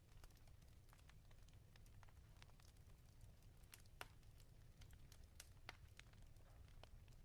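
Fire in a fireplace crackling: irregular sharp pops and snaps, the loudest about four seconds in, over a low steady rumble.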